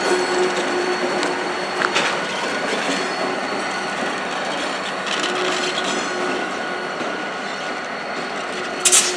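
CN train's cars rolling by on the rails: a steady wheel-on-rail rumble with a faint, steady high squeal, a light knock about two seconds in and a sharp clank near the end.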